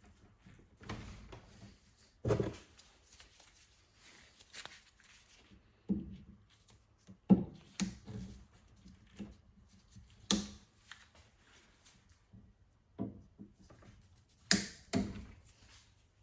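Scattered knocks and clunks of tools and parts being handled during lawn mower repair work, about eight irregularly spaced strikes with quiet handling noise between.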